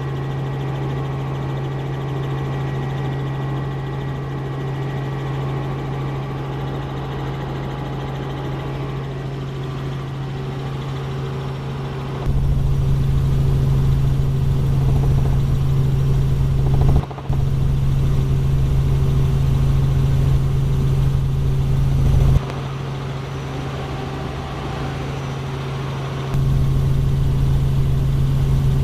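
Helicopter in flight: a steady, loud drone of rotor and engine. It jumps abruptly louder about twelve seconds in, then drops and rises again a few times.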